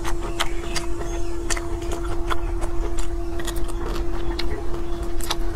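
Close-up eating sounds: chewing and sucking on food with many short, sharp wet mouth clicks, picked up by a clip-on microphone. A steady hum runs underneath.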